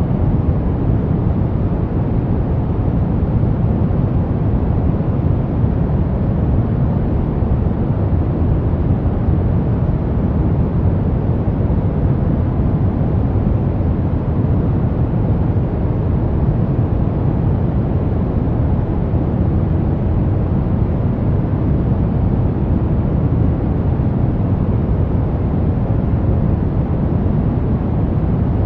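Brown noise: a steady, even rumbling hiss, strongest in the low end and falling off toward the highs, with no changes.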